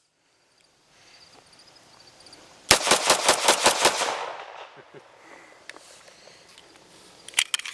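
Rapid semi-automatic fire: a string of about eight gunshots in just over a second, with the echo trailing off afterwards. A few sharp clicks come near the end.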